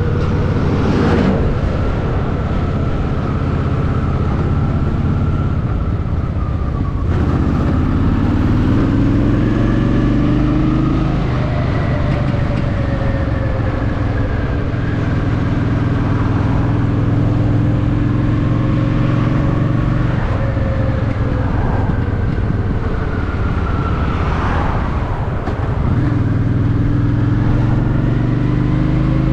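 Honda Shadow VT750's V-twin engine running under way, its pitch climbing and dropping several times with throttle and gear changes, over steady wind and road noise.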